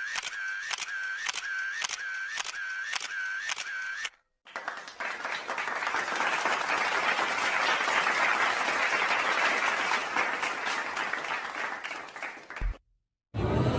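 Two stock sound effects in turn. First a quick repeated click with a short chirp, about three a second, for roughly four seconds. Then, after a brief gap, a crowd applauding for about eight seconds, ending in a short thump.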